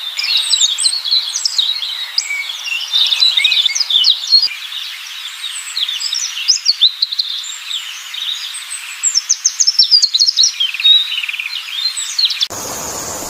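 Songbirds chirping and twittering, many short quick calls overlapping. Half a second before the end the chirping cuts off abruptly, replaced by a steady high tone with a hiss.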